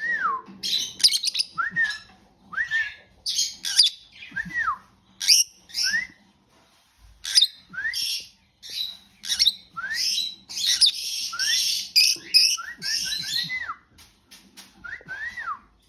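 Lovebirds chattering: harsh, scratchy chirps mixed with short squeaky calls that rise and then fall, coming every second or so.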